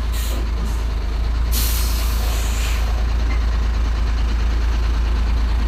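Hino 500 heavy truck's diesel engine rumbling, with a sharp air-brake hiss about a second and a half in that lasts around a second and a half.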